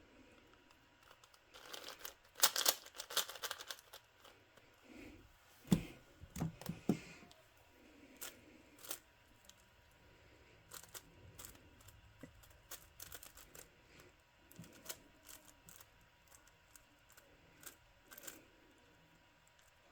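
Plastic puzzle cube being turned by hand, its layers clicking and clacking in quick flurries and then in scattered single turns. A low thump about six seconds in.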